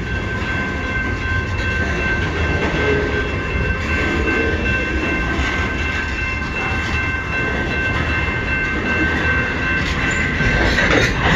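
CN freight train cars rolling past slowly with a steady low rumble and a steady high-pitched squeal from the wheels as the train slows to stop.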